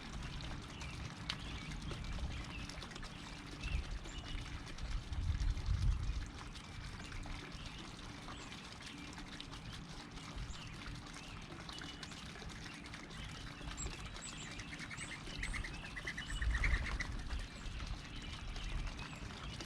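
Wild birds chirping, with short scattered calls and a quick run of rapid notes near the end, over low rumbling swells about four to six seconds in and again near the end.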